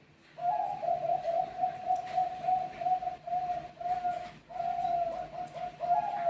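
Zebra dove (Bangkok-type perkutut) cooing: after a brief silence, a long, even run of short, quick coo notes, about three a second.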